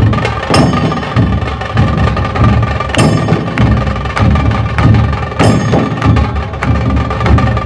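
Dhol Tasha ensemble playing loud: the big barrel-shaped dhol drums beat out a dense low rhythm under rapid, sharp tasha strokes. Big accented hits land about every two and a half seconds.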